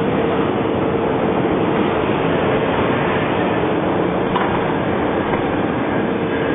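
Passenger train hauled by a VL82M electric locomotive moving: a steady, loud rumble with a steady mid-pitched hum running through it.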